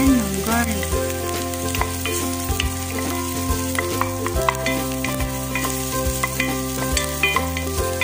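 Chopped onion and garlic sizzling in hot oil in a pot as a wooden spoon stirs them, with scattered taps and scrapes of the spoon against the pot.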